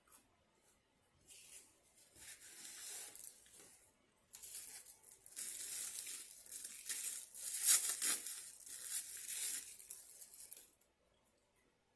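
Paper crinkling and crumpling in two stretches, a brief pause near four seconds in, loudest about eight seconds in, stopping shortly before the end.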